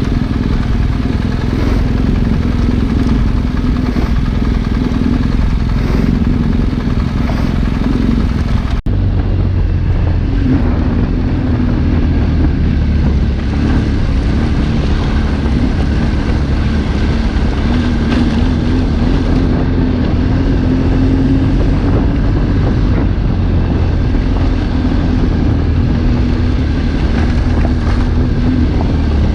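Trail motorcycle engine running steadily while riding off-road, with heavy low rumble. The sound breaks off sharply for an instant about nine seconds in and carries straight on.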